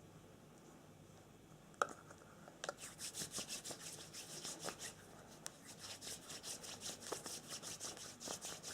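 A single sharp click, then fast, even rubbing or scratching strokes at about five a second, hissy and high-pitched, starting about three seconds in.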